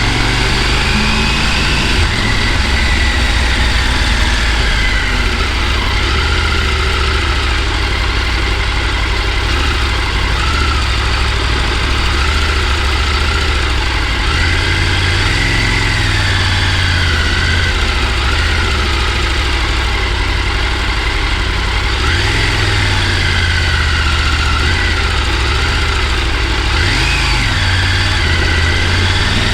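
Car engine running with road noise, a steady low rumble whose engine note slowly rises and falls as the car drives.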